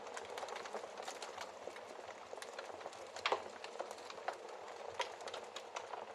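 Wood fire crackling in a fireplace: irregular sharp pops and snaps over a steady soft hiss, the loudest pop about three seconds in.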